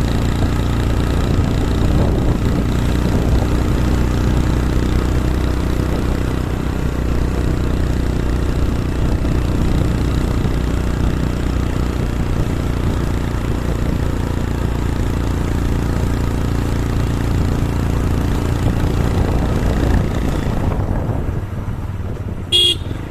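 A motor vehicle's engine running steadily, with a haze of road or wind noise; it quietens about three-quarters of the way through. A short high-pitched sound comes just before the end.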